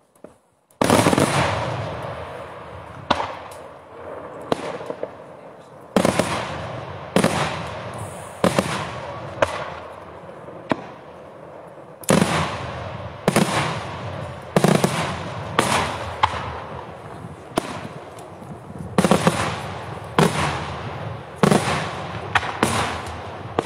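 Daytime fireworks: aerial shells going off in a string of loud bangs, about one a second, starting about a second in. Each bang trails off in a long rolling echo.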